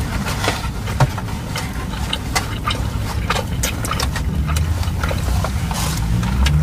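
Close-miked chewing and mouth sounds, with small clicks of plastic forks in foam takeout containers, over a steady low rumble in the car's cabin.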